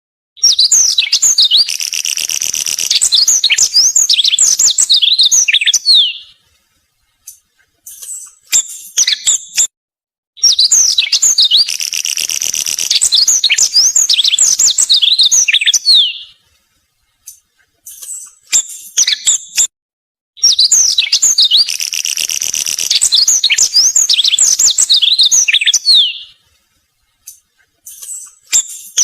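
Pipit singing: a six-second phrase of fast trills and sweeping high whistles, given three times about ten seconds apart, with shorter chirps in the pauses between.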